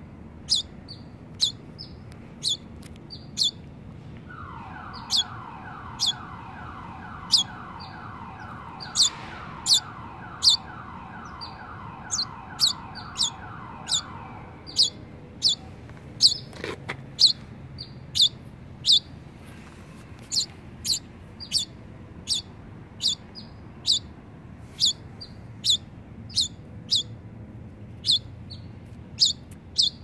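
A young bird calling with short, sharp, high chirps, a little more than one a second, without a break. From about four to fourteen seconds in, a fainter, rapid, evenly repeated call sounds underneath.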